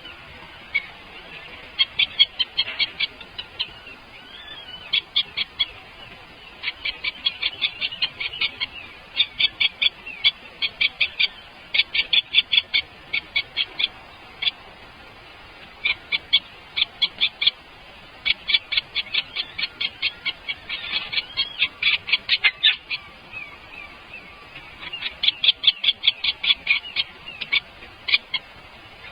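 Baby birds chirping in quick runs of short, high calls, several a second, that stop and start again every few seconds: the begging calls of nestlings waiting to be fed.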